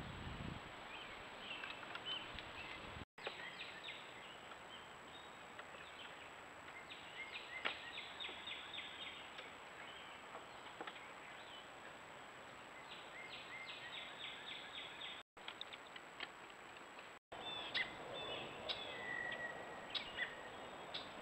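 Outdoor ambience with several wild birds singing and chirping in short trills and calls, over a thin steady high tone. A low rumble sits under the first few seconds, and the sound cuts out briefly three times.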